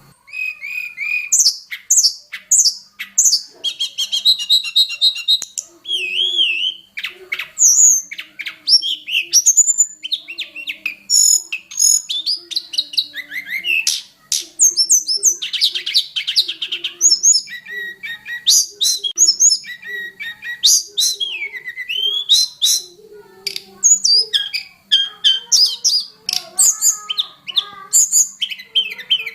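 Tledekan gunung singing a long, varied song of rapid chirps, trills and gliding whistles, packed with many different phrases (the 'million fills' prized by bird keepers).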